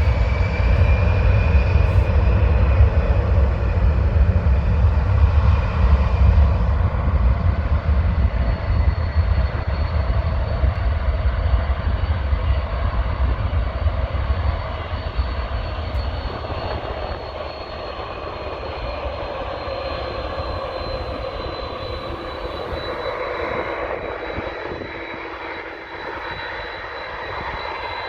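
Jet airliner taking off at full thrust: a loud, deep engine rumble for the first several seconds that then fades slowly as the aircraft climbs away, leaving a steady high whine over the falling noise.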